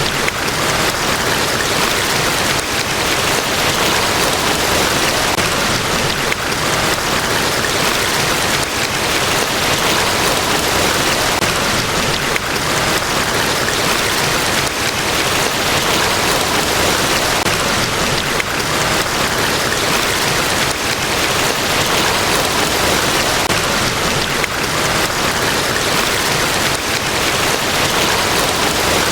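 Niagara Falls: a large waterfall's falling water making a steady, even rush of noise with no breaks or changes.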